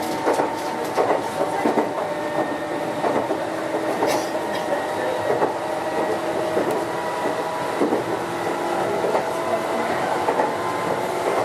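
Running sound of a Meitetsu 6900-series electric train at speed: a steady whine of several held tones from the drive, over wheel-and-rail noise, with irregular clicks of wheels passing rail joints.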